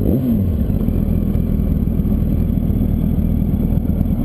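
Yamaha R1's inline-four engine changing pitch sharply in a brief blip about half a second in, as on a gear change while the bike slows to a stop. After that it runs rough and steady at low revs.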